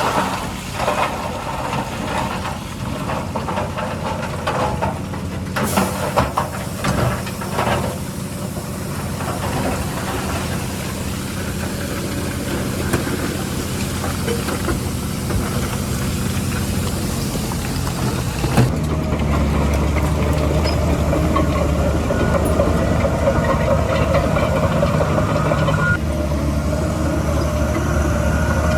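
Heavy diesel construction machinery running steadily, with a few clanks about five to eight seconds in. About two-thirds of the way through, the sound changes abruptly to a louder, deeper engine.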